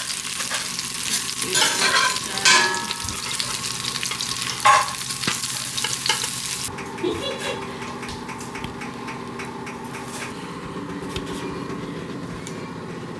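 Grilled cheese sandwiches sizzling in butter on a Zojirushi electric griddle, with a few sharp clicks and scrapes of a metal spatula against the griddle as they are flipped. About seven seconds in the sizzle cuts off abruptly, leaving a quieter steady background.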